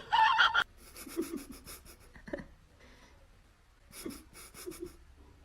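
A pet's rapid, rhythmic breathing in two short bouts, after a brief high-pitched cry at the very start.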